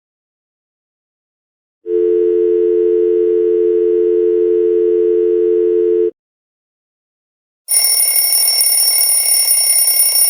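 Telephone dial tone: a steady low two-note hum for about four seconds. After a short gap, a loud, continuous high-pitched bell ring starts near the end.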